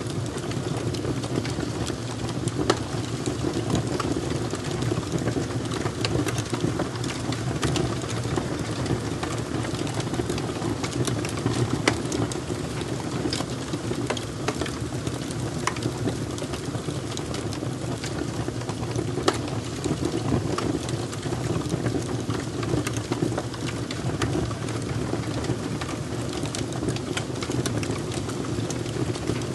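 Fire crackling: a steady low rush of burning under irregular sharp pops and snaps scattered throughout.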